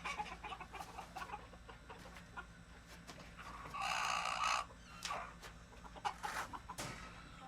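Chickens clucking in a coop, with one loud, drawn-out squawk about four seconds in and a few shorter sharp calls after it.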